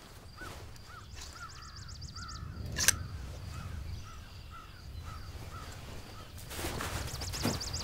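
A bird calls in a steady series of short, rising-and-falling calls, about two a second, until a little after six seconds in. A faster high-pitched trill sounds over them near the start and again at the end, and there is a single sharp click just before three seconds. A rustling noise rises over the last second or so.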